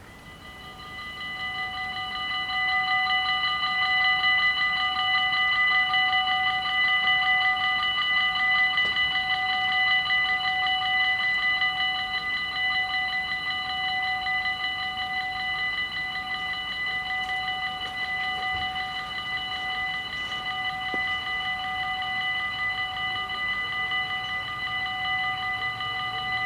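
Dutch level-crossing warning bells ringing in rapid, steady strokes with a bright metallic ring. They swell up over the first few seconds as the crossing's warning starts, then hold steady.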